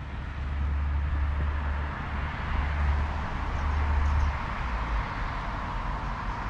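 Street traffic ambience: a low vehicle rumble for the first four seconds or so, then fading, over a steady hiss.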